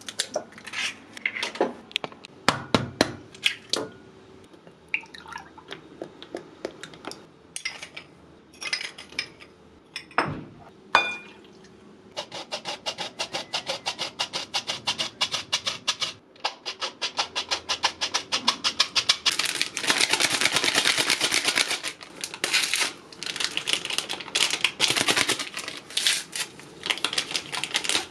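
Scattered sharp clicks and knocks of things being handled, then, about twelve seconds in, a small machine starts up with a fast, even ticking rhythm that keeps on, growing louder and noisier for a few seconds in the middle of it.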